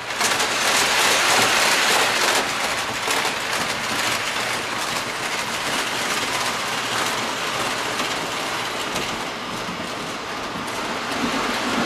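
Model train running on the layout's track, a steady rolling clatter of wheels on rail that starts suddenly.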